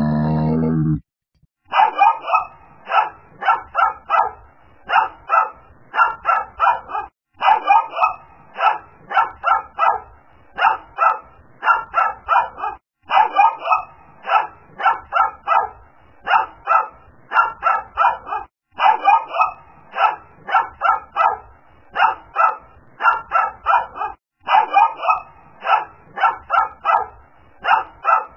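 A low grunt in the first second, then a small dog barking in sharp high yaps, about two or three a second. The yaps come in runs that pause briefly every five seconds or so.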